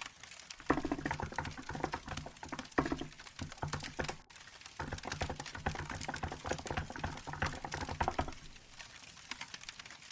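Fast typing on a Hansung GK868B mechanical keyboard with milk-coloured keycaps: rapid clicking keystrokes in bursts with a short pause in the middle, stopping about eight seconds in. A faint crackling firewood sound runs underneath.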